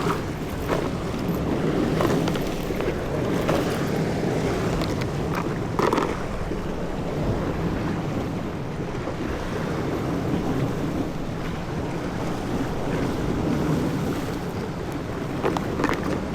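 Wind buffeting the microphone over water sloshing against a small fishing boat, with a couple of brief knocks about six seconds in and near the end.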